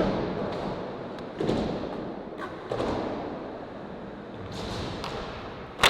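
Skateboard rolling, with a few light knocks of the board and one sharp clack of the board hitting the ground near the end.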